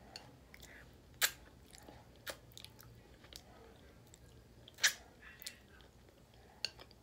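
Close-up chewing and lip smacking of a person eating with her fingers, with a few sharp wet clicks, the loudest about a second in and just before five seconds in.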